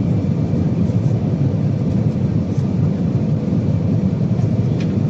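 Steady cabin noise of an Airbus A320 in flight: a loud, even, low rumble of the jet engines and the airflow over the fuselage, with a faint steady hum on top.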